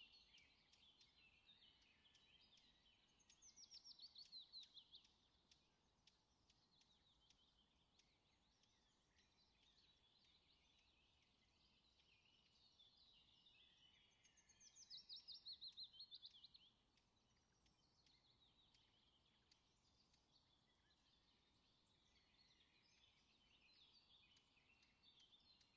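Faint birdsong: continuous high twittering, with two louder phrases of quick, repeated falling notes, about four seconds in and again around fifteen seconds in.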